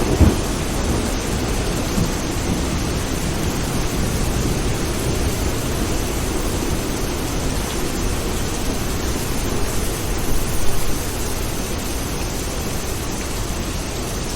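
Steady rain with thunder: a sharp crack right at the start breaking into a low rumble, and another lesser thunder swell about ten seconds in.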